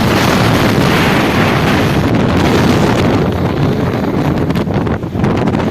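Strong wind buffeting the microphone: a loud, steady rush with a short lull about five seconds in.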